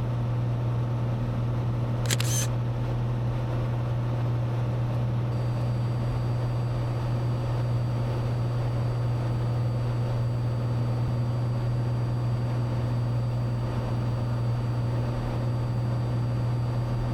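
Cessna 182's six-cylinder engine and propeller running steadily in cruise, heard as a constant low drone in the cockpit. A short click about two seconds in.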